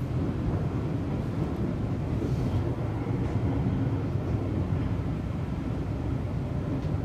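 Seibu 40000 series electric train running on the line, heard from inside the car: a steady low rumble of wheels and running gear on the rails.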